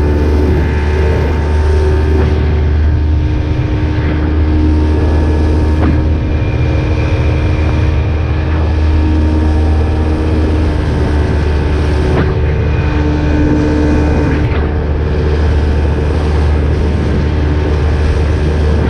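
Small boat's carbureted outboard motor running steadily under way, with a constant low rumble and a steady hum that barely changes in pitch.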